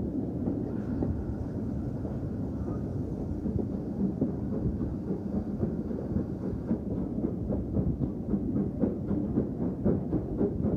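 Steam railway train running, a steady low rumble of wheels on track. About seven seconds in, a regular beat sets in and quickens.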